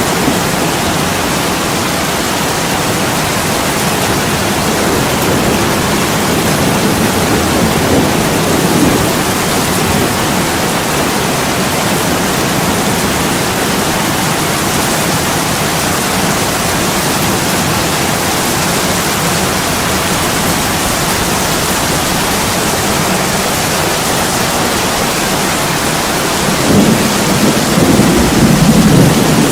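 Heavy rain pouring steadily on an attic window, with a low rumble of thunder swelling near the end.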